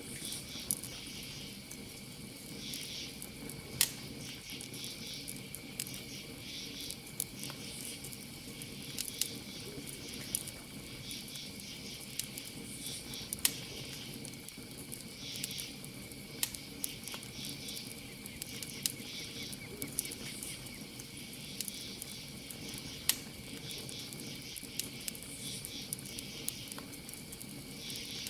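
Campfire crackling, with sharp irregular pops over a steady hiss, while crickets or other insects chirp in a steady high tone with pulsing high trills.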